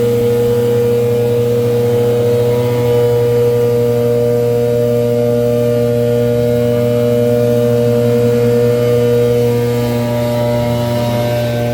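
Gas leaf blower's small engine running steadily at high throttle, blowing air.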